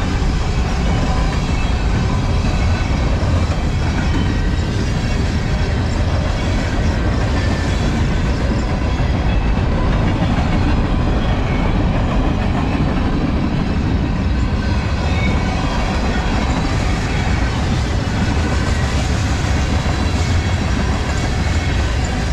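Freight train cars rolling past close by: loud, steady noise of steel wheels running on the rails, with no engine or horn in it.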